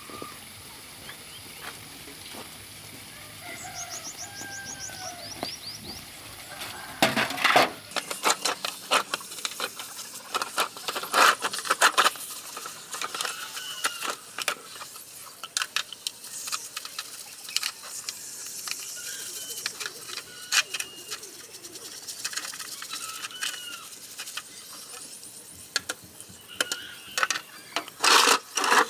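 Irregular sharp clicks and knocks of hands and tools working on an old television set, starting about seven seconds in, with birds chirping in short rising-and-falling calls throughout.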